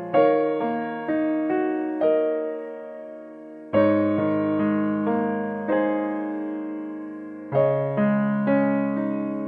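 Background music: solo piano playing slow, gentle chords that ring out and fade between strikes.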